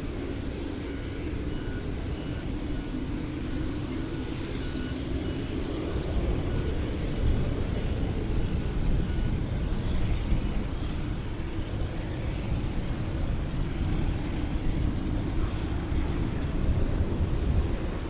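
Aircraft engine noise: a steady low rumble that grows heavier about a third of the way in, with a faint steady whine early on.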